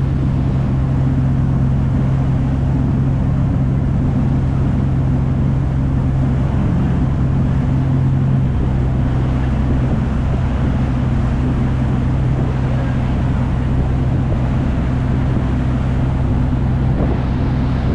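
Tour river boat's engine running with a steady low drone, with a steady hiss above it.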